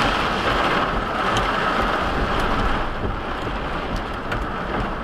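Thunderstorm rain and wind: a steady rushing noise that eases slightly toward the end, with a few sharp ticks of drops striking.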